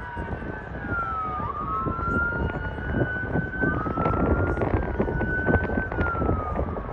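Airport fire engines' sirens wailing: slow rising and falling tones, with two sirens overlapping at times, over a steady low rumble.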